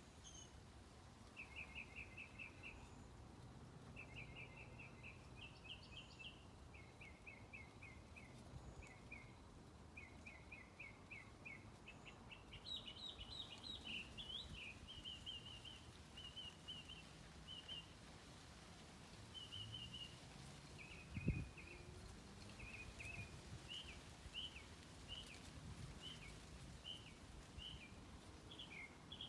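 Birds singing faintly: repeated quick runs of short chirping notes, some in rapid trills, with single chirps toward the end. One short low thump about two-thirds of the way through.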